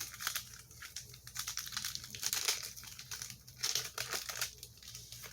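Wrapper of a small pack of collector cards crinkling and rustling as it is torn open and the cards are pulled out, in a quick irregular run of crackles and clicks.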